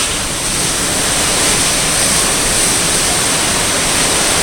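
Typhoon-force winds of Hurricane Haiyan blowing outside, a loud, steady rush of noise.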